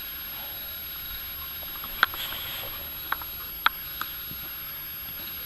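Steady background hiss with four short, sharp clicks, about two, three, three and a half and four seconds in.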